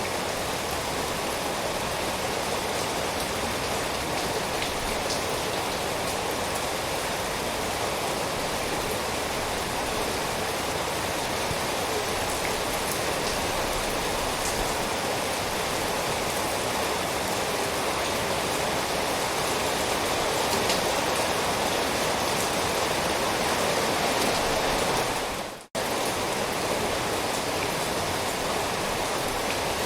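Steady, dense rainfall hissing evenly. It drops out for a split second about 26 seconds in and comes straight back.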